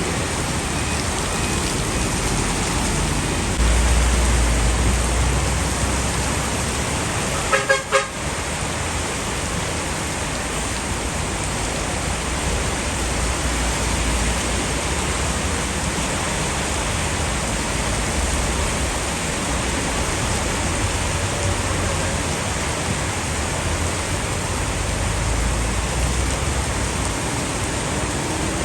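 Heavy rain pouring steadily, with gusts of wind rumbling on the microphone now and then. A brief pitched sound cuts in about eight seconds in.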